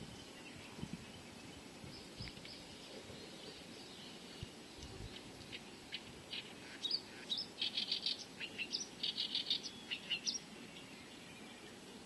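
A small bird calling: a quick run of short, high chirps from about six seconds in until near the end, over a faint outdoor background.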